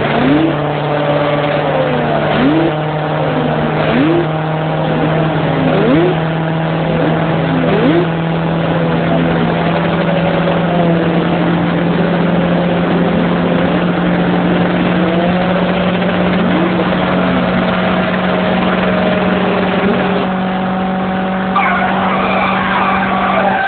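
A motor vehicle engine, likely a motorcycle, running loud and steady, its drone slowly rising in pitch, with short rising sweeps like revs every second or two. A higher, broken sound joins in near the end.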